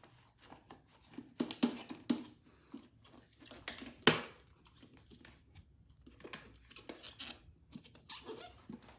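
Handling noise from plastic parts: irregular light clicks and knocks with some crinkling, and one sharper knock about four seconds in.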